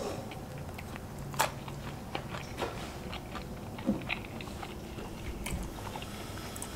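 A person chewing a fried chicken nugget, with soft crunches and mouth clicks and a sharper crunch about a second and a half in.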